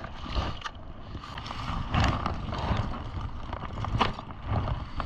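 Strong wind buffeting the microphone with a low, gusting rumble, broken by a few short knocks and clicks of handling.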